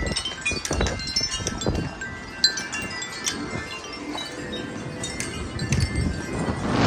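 Wind chimes ringing rapidly and irregularly, struck over and over by strong gusting wind. Gusts of wind rush across the microphone, swelling again near the end.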